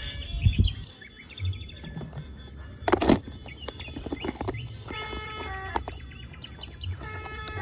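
Simple electronic beeping melody of the kind battery-powered toy vehicles play, with small plastic clicks and one loud clatter about three seconds in.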